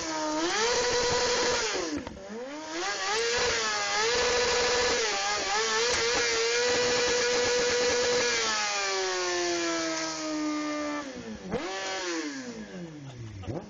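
Kawasaki Ninja 636 sport bike's inline-four engine revved hard in a snow burnout. The revs climb and dip about two seconds in, climb again and hold high for a few seconds, then fall away, with two quick blips near the end, all over a steady hiss.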